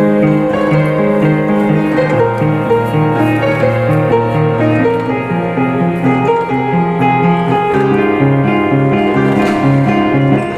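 Background piano music: a calm melody over a steady accompaniment of repeated notes.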